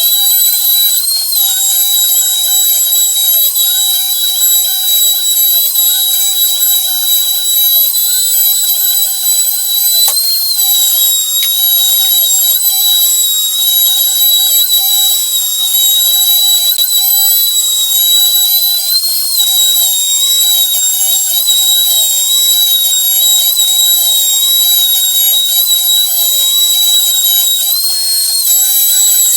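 Homemade CNC router cutting a puzzle: a steady high-pitched spindle whine, its pitch rising briefly about every nine seconds, over fainter, shorter gliding tones from the stepper motors.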